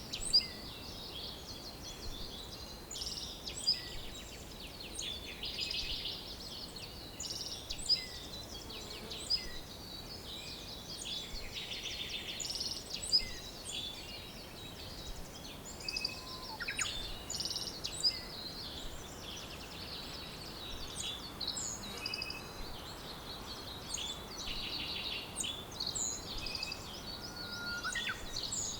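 A chorus of several songbirds singing and calling at once: many short chirps, rapid trills and quick falling whistles overlapping, over a faint steady hiss of outdoor background.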